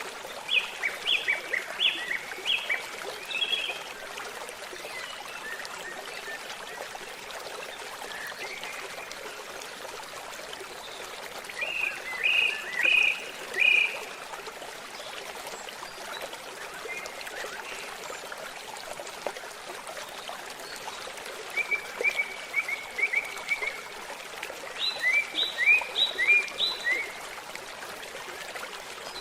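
Steady babble of a flowing stream with songbirds singing over it: quick series of high chirps near the start, around the middle, and again near the end.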